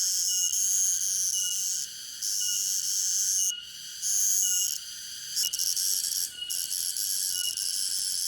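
Cicadas buzzing: a loud, high, continuous drone that drops out briefly a few times, with a short faint chirp repeating about once a second beneath it.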